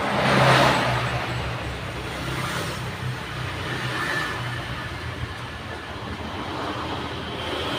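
Road traffic going by: one vehicle passes close, loudest about half a second in and fading over the following second or so, over a steady low engine hum.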